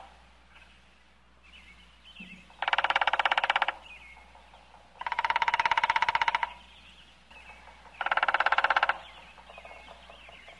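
Woodpecker drumming: three rapid rolls of taps, each about a second long and a few seconds apart, with faint bird chirps in between.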